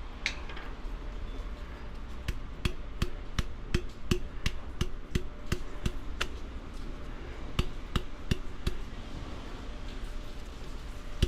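Repeated quick knocks on a jar of tomato sauce, about three a second in two runs, tapping the last of the sauce out.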